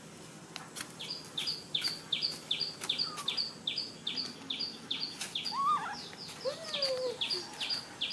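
A bird calling over and over: short high chirps, each dropping in pitch, about three a second without a break. A few lower, curving notes come in around the middle.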